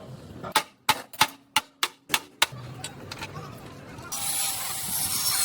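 Workshop tool sounds: about seven sharp knocks in quick succession, then a steady rasping noise that starts about four seconds in.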